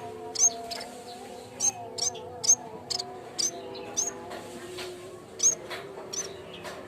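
Yellow-bellied warbler (cikrak bambu) calling: short, sharp, high chirps repeated irregularly about twice a second, over fainter, steadier lower tones that waver in pitch.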